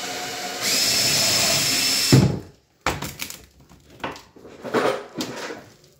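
Power drill driving a screw: the motor runs steadily, speeds up about half a second in, and stops at about two seconds with a knock. A few lighter knocks and handling sounds follow.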